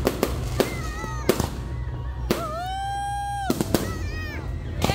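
Aerial fireworks going off in a string of sharp, irregular bangs, the sharpest about a second in, over a steady low rumble. Music with long held, gliding pitched notes plays over the bangs.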